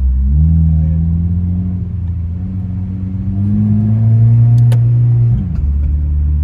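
Car engine and aftermarket exhaust droning at steady revs, the pitch climbing gently and then falling away about five seconds in, as when the throttle is eased off. A single sharp click comes just before the drop.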